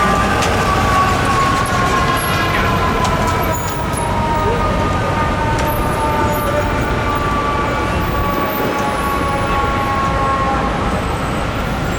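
Fire truck's Federal Signal EQ2B mechanical siren winding down, its wail falling slowly in pitch and fading out near the end, over steady city traffic noise.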